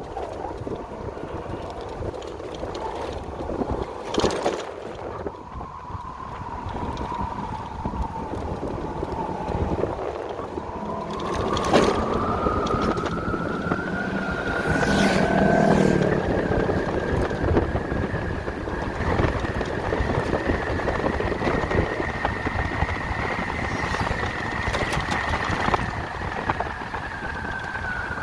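Electric motorcycle's motor whining over steady wind rush while riding. The whine climbs in pitch about ten seconds in as the bike speeds up, holds high, then falls away at the end as it slows. A few sharp knocks from road bumps.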